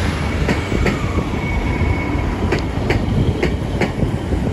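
A passenger train rolling past a station platform with a steady low rumble, its wheels clicking over rail joints in pairs. A faint wheel squeal sounds in the first couple of seconds.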